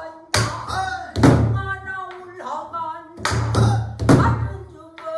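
Pansori singing accompanied on the buk barrel drum. Several sharp drum strokes with a deep boom ring out between the singer's held, wavering notes.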